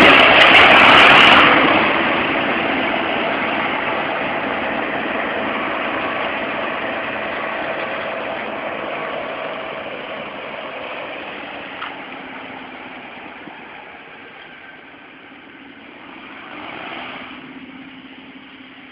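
A tractor engine running, loud for the first second or so, then fading steadily as it moves off, with a brief swell in engine sound near the end.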